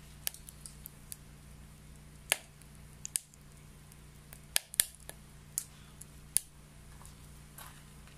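Wet wood crackling as it burns in a homemade secondary-combustion stove, with sharp, irregular pops, the loudest near the middle. A steady low hum runs under it.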